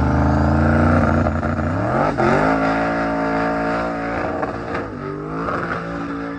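Drag car's engine at full throttle during a pass, its pitch climbing in steps and holding between them.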